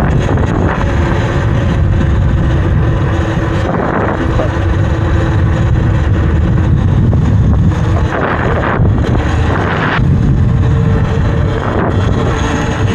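Heavy wind rushing over the microphone while riding a Talaria electric dirt bike, with the motor's faint steady whine underneath and a few gusts that swell louder.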